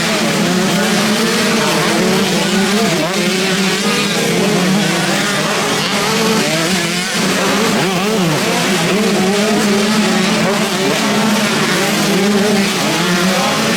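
Several motocross motorcycles racing, their engines revving up and falling back again and again in overlapping waves over a steady engine drone.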